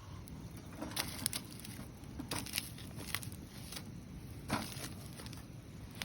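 Wood fire burning in a YOKA fire pit, crackling with irregular sharp pops over a low steady rush; the loudest pops come about one second and four and a half seconds in.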